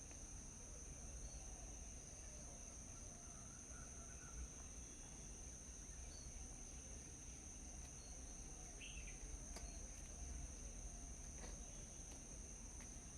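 Faint, steady, high-pitched insect drone of crickets or cicadas, with a few faint bird chirps and a couple of light clicks.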